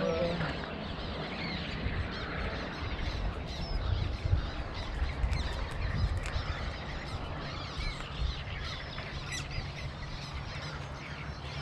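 Many birds calling and chirping at once, with a low rumble underneath.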